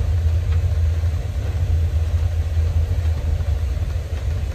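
Steady low rumble of a moving train, heard from inside a closed air-conditioned passenger coach.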